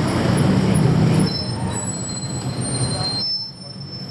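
Steady rumble of city street noise, with thin high-pitched squealing tones coming in about a second in.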